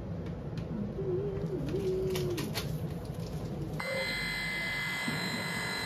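A puppy whimpers with a short wavering whine, then electric pet clippers switch on a little under four seconds in and buzz steadily, ready for shaving the dog's fur around his wounds.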